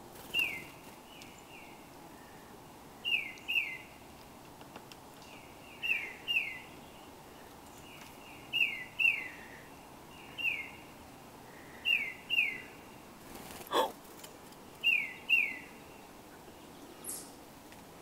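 A small songbird singing a repeated two-note phrase, each note a quick down-slurred whistle, the pair coming about every two and a half to three seconds. One sharp knock about three-quarters of the way through.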